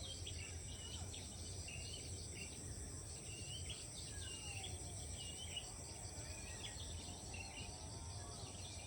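Rice-field ambience: a steady high insect drone, with short bird chirps scattered throughout, over a low rumble.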